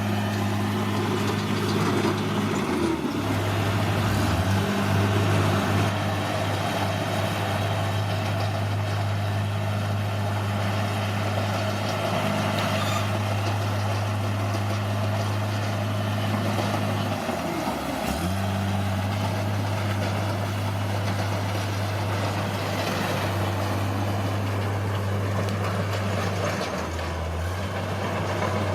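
Bulldozer's diesel engine running steadily. Its pitch dips and recovers briefly twice, about three seconds in and again just past halfway, as the engine bogs under load.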